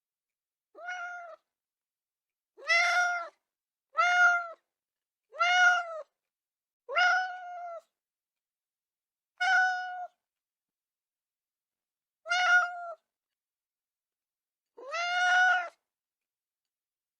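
A cat meowing, eight short separate meows with silence between them, spaced irregularly one to three seconds apart.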